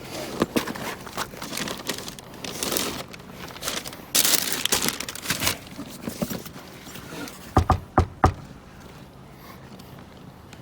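Rustling and crinkling handling noises, with a longer scraping rush about four seconds in. Three sharp knocks come close together about eight seconds in.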